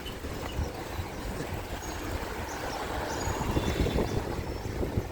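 Wind buffeting the microphone of a camera on a moving bicycle, an irregular low rumble over a steady wash of street noise. It gets a little louder in the second half.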